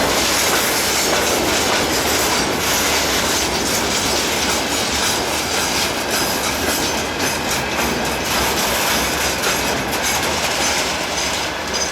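Small freight train hauled by a ChME3T shunting diesel locomotive rolling past, its wagon wheels clattering over the rail joints in a loud, steady rumble that eases slightly near the end.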